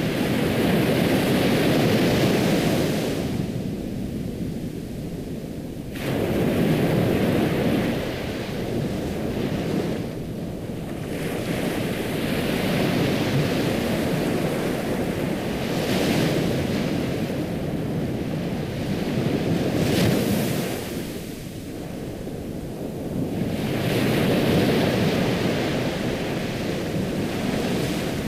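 Ocean waves surging in and drawing back, a rushing wash that swells and fades every four to six seconds.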